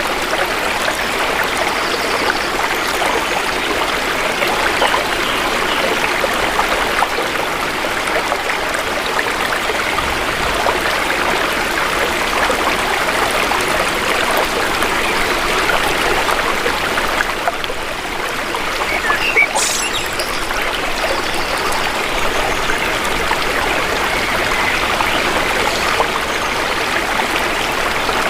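Shallow river water flowing and babbling steadily over stones. About two-thirds of the way in there is one brief sharp sound, a click or a chirp.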